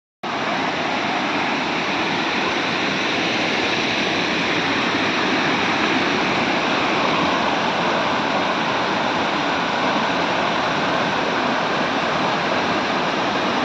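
Waterfall and stream water rushing in a steady, unbroken noise that cuts in abruptly at the start.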